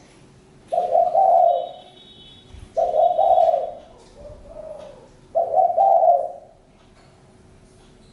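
Spotted dove cooing: three low cooing phrases about two seconds apart, the middle one trailed by a softer note.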